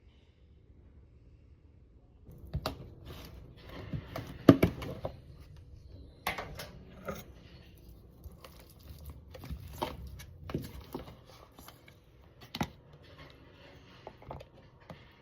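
Close handling noise: irregular clicks, knocks and rustling of objects being moved about, starting about two seconds in, with the sharpest knock a little past the middle of the first third.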